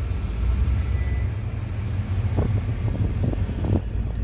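Steady low rumble of a running engine, with a few faint short voice-like sounds over it about two seconds in.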